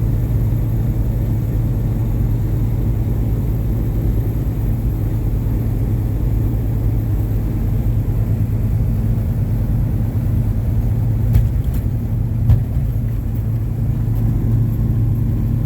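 Truck engine running steadily while driving, with a low rumble and hum. Two short knocks come a little after two-thirds of the way through.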